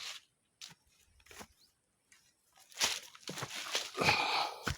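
A cast net being hauled in and gathered by hand, giving scattered light clicks and then two louder bursts of rustling and crunching.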